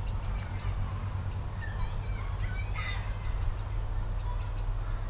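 Small birds chirping: quick, short, high chirps in clusters, with a brief falling trill about three seconds in, over a steady low rumble.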